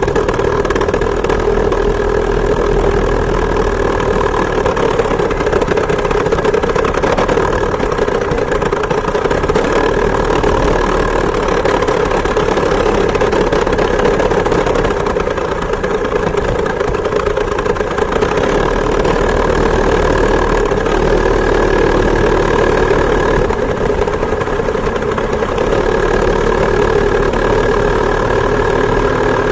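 Chainsaw two-stroke engine on a homemade moped running steadily under way, its pitch holding nearly constant with slight drifts, heard loud and close from the handlebar.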